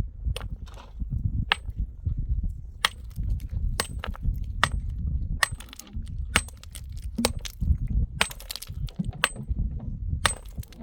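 Irregular sharp clacks of hard things striking stone, about a dozen over several seconds, each with a brief ringing edge, over a low wind rumble on the microphone.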